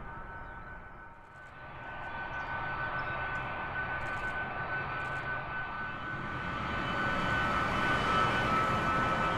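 Jet airliner's engines: a steady whine over a broad rush, dipping briefly about a second in and then growing steadily louder.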